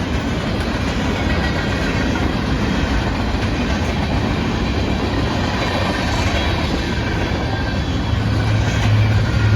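Freight cars of a manifest train rolling past, a steady rumble of steel wheels on rail with some clickety-clack. A low steady hum comes in near the end.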